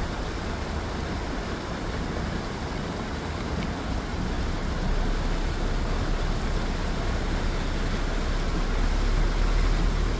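Steady rushing noise of heavy rain together with a car driving on a wet road, growing gradually louder in the second half.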